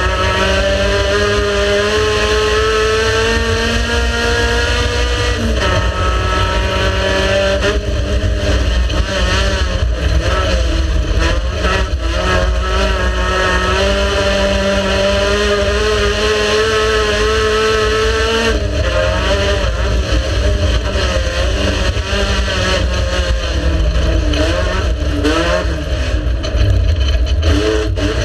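Race car engine running hard at high revs, its pitch climbing slowly, then dropping sharply about five seconds in and again about eighteen seconds in, with quick rises and falls in revs near the end.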